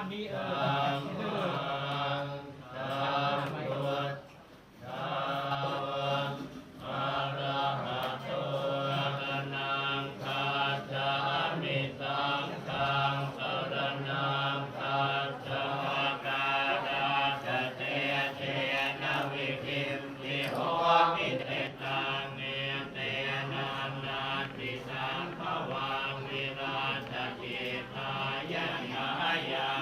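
Buddhist monks chanting Pali verses in unison on a steady low pitch, with a brief breath pause about four and a half seconds in.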